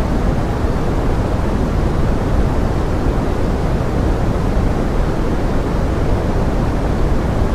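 Steady pink noise in the manner of heavy rain: an even, unbroken hiss, fullest at the low end and thinning toward the top, with no separate drops or other sounds.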